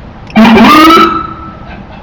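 Short, very loud blip from a Ford Crown Victoria police car's siren: a single rising whoop lasting under a second, then fading out.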